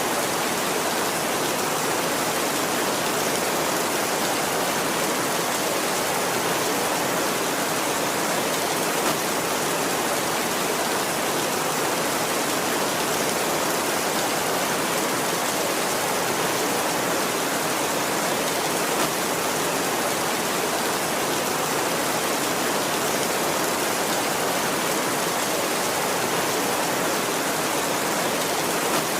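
Heavy rain falling steadily on a tin roof, an even, unbroken hiss with no thunder.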